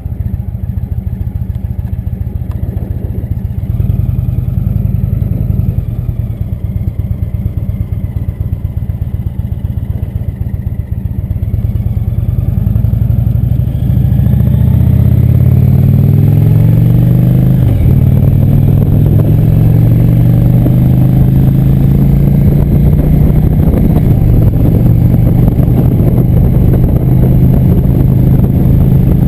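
Motorcycle engine running: uneven and lower for the first dozen seconds, then louder as it accelerates with rising pitch. The pitch dips once, like a gear change, then holds steady at cruising speed.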